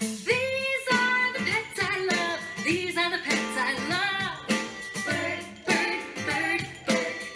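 Children's song: a singing voice over strummed acoustic guitar.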